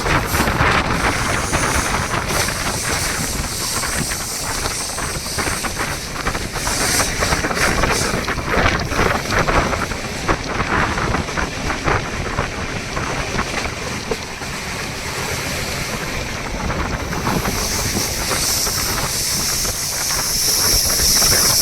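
Express train hauled by a WAP-7 electric locomotive running at about 110 km/h: a steady rush of wheel and rail noise with wind buffeting the microphone and scattered clattering knocks from the wheels.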